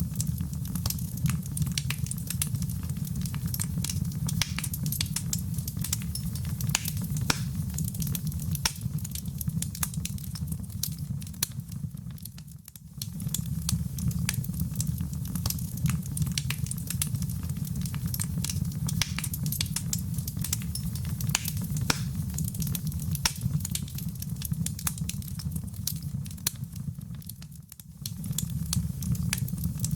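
Wood fire burning in a fireplace: dense crackles and pops over a steady low rumble of the flames. It dips briefly twice, about halfway through and near the end, where the recording loops.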